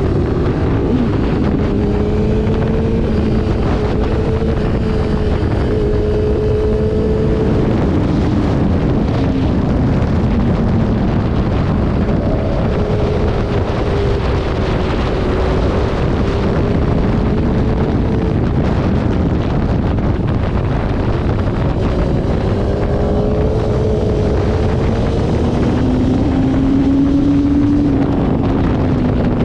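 Motorcycle engine at speed, its pitch rising and falling as it accelerates and slows through the track's sections, under heavy wind noise on the microphone.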